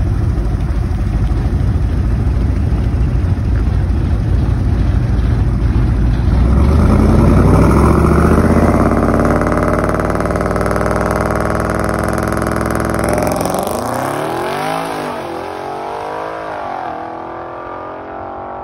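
Twin-turbo Ford 5.0 Coyote V8 at a drag-strip start: a heavy rumble, then revs climbing steadily for several seconds. About 13 seconds in the car leaves, the engine pitch sweeping up and dropping back through its gear changes as it gets fainter down the track.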